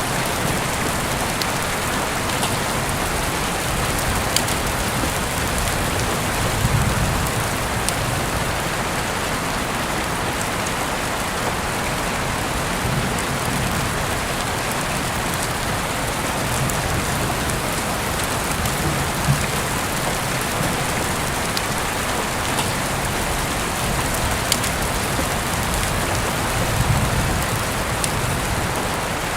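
Steady heavy rainfall heard through an open window, an even hiss with scattered sharper drop ticks.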